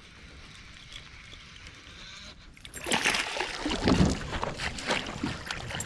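Hooked bass thrashing and splashing at the water's surface beside a kayak as it is played in. The splashing starts abruptly about three seconds in and goes on in irregular bursts after a quiet first half.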